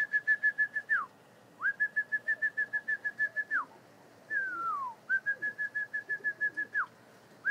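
A person whistles a warbling call to bring pigeons down to the loft. There are three fluttering phrases, each ending in a downward slide, with a single falling whistle between the second and third.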